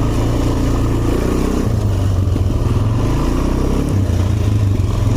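Quad (ATV) engine running steadily at low revs.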